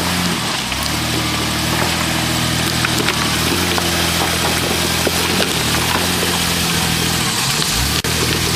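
Four-wheel-drive vehicle engine running steadily, its pitch shifting a few times, with small knocks and clicks throughout.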